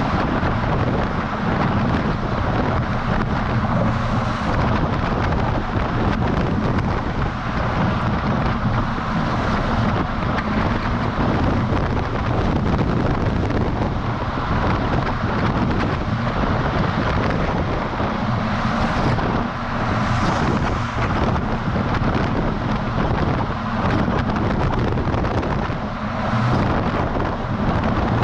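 DAF XF semi-truck driving on the road, heard from outside the cab: steady engine and tyre noise with wind buffeting the exposed microphone.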